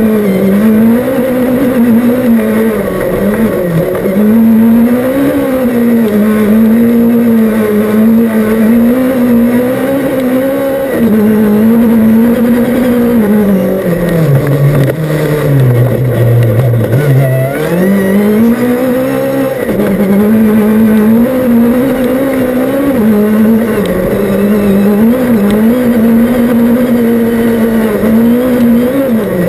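Rally car's engine heard from inside the cockpit while driving a stage, running hard, its pitch rising and falling with throttle and gear changes. About halfway through it drops low for a couple of seconds, then climbs again.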